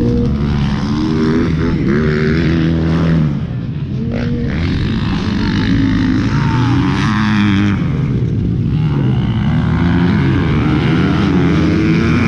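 Motocross bike engine revving hard, its pitch climbing and dropping again and again.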